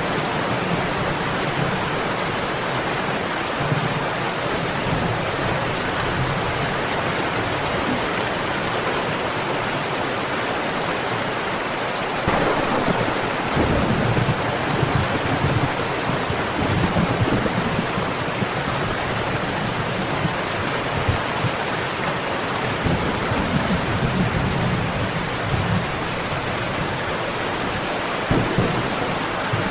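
Steady heavy rain falling, with low rolls of thunder rumbling in about twelve seconds in and again later on.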